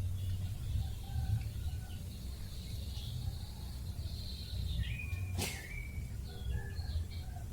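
Birds chirping: a long, high, steady call that drops in pitch about five seconds in, followed by short chirps, over a steady low rumble. A single sharp click sounds about five and a half seconds in.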